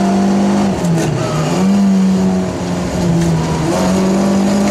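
Rally car engine heard from inside the cockpit, held at high revs under power, its note dipping briefly about a second in and again around three seconds before climbing back.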